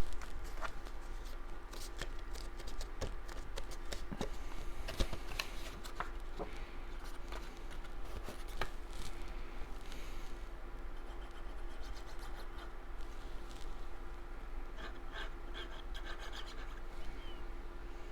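Cardstock being handled and pressed together: scattered rustling, rubbing and small clicks over a steady background hum.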